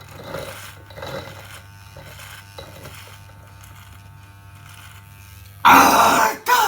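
A small electric motor buzzing steadily with a low hum, like an electric shaver or hair clipper. About five and a half seconds in, a loud, harsh burst of noise lasting under a second cuts in over it.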